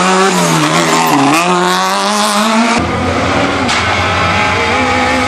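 Small Fiat rally car's engine revving up and down under hard driving. About three seconds in it cuts abruptly to another car's engine at a steadier pitch.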